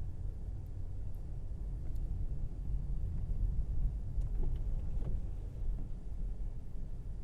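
Steady low road and tyre rumble heard inside the cabin of a Tesla Model Y electric SUV driving through snow, with a few faint ticks about four to five seconds in.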